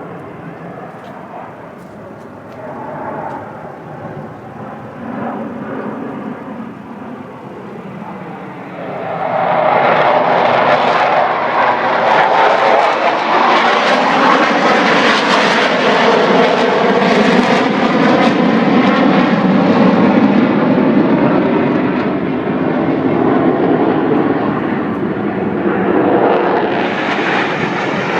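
Aircraft flying past at an air show: fainter at first, then much louder from about nine seconds in, with a sweeping, shifting tone, before easing off a little near the end.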